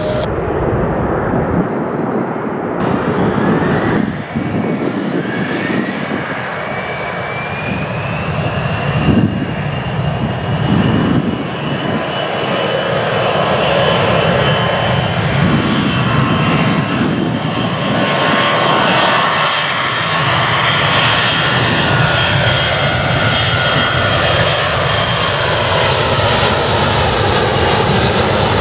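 Jet airliner's engines at takeoff power on departure, a loud steady roar with a whine that rises in pitch over the first few seconds and then holds.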